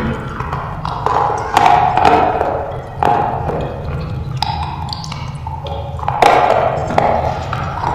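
Slate pencil being bitten and chewed close to the microphone: a sharp, crisp crunch every second or so.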